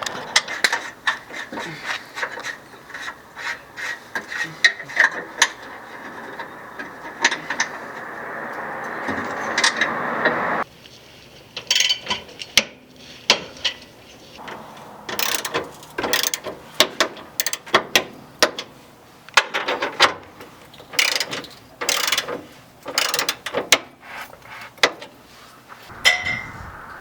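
Hand ratchet wrench clicking in short runs, driving the bolts that fit the exhaust brace and hanger. A steady rushing noise builds under the clicks and cuts off abruptly about ten seconds in.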